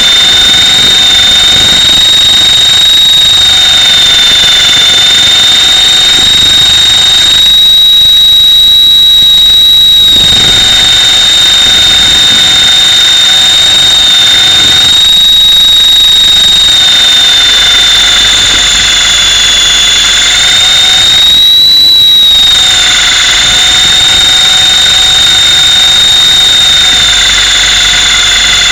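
Mini Titan E325 electric RC helicopter's motor and gears whining, heard from a camera mounted on the helicopter: a loud, steady high-pitched whine. Its pitch wavers a little, rising briefly about 8 seconds in and again a little after 20 seconds.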